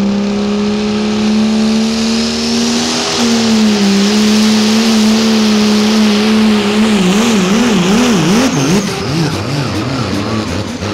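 A 1945 Dodge Power Wagon pulling truck runs at high, steady revs under full load during a pull, with a loud hiss of spinning tyres and dirt over the engine note. About seven seconds in, the engine speed begins swinging rapidly up and down, then fades as the pull ends.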